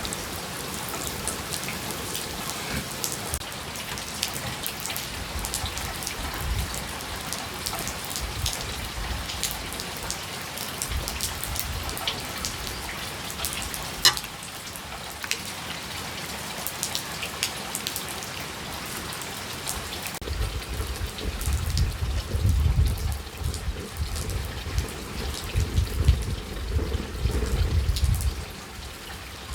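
Steady rain falling, with many individual drops ticking sharply close by. A low rumble comes and goes in the last third.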